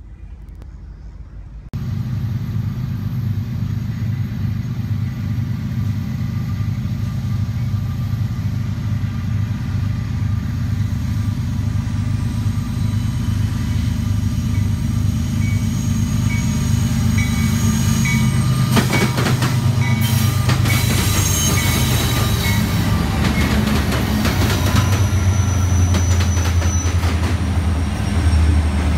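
Union Pacific diesel locomotives running at the head of a double-stack container train as it approaches and passes: a steady low engine hum that comes in suddenly about two seconds in. In the second half this is joined by wheel and rail clatter as the engines draw alongside.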